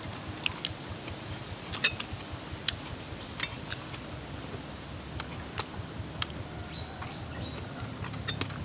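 Close-up mouth sounds of eating cooked baby shark: irregular wet smacks and crunchy clicks as she bites and chews the meat off the bone. A faint high steady tone is heard for about a second and a half near the middle.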